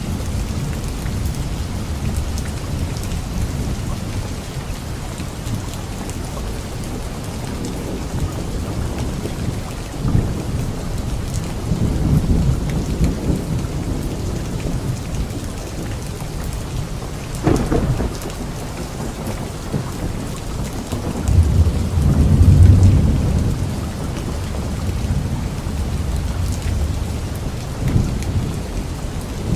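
Steady rain falling on leaves with ongoing low rolling thunder; a sharp thunderclap about two-thirds through, then a louder rumble swells up a few seconds later.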